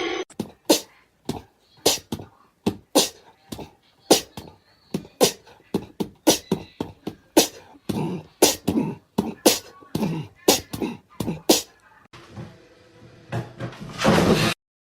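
An irregular run of short, sharp taps, a few each second, stopping about three-quarters of the way through; a louder rushing burst comes near the end.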